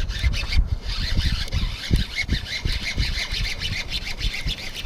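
Irregular low knocks and rumbling from gear and boat handling while a hooked bass is being fought in, over a steady high hiss.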